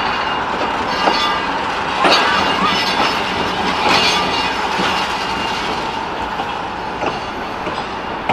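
A train rolling along the rails: steady running noise of wheels on track, with a few sharp clanks, the loudest about two and four seconds in.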